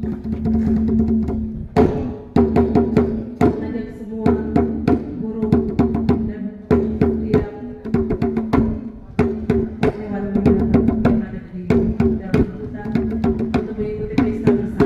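Traditional Papuan dance music: voices holding sung tones together over many sharp, uneven percussive strikes.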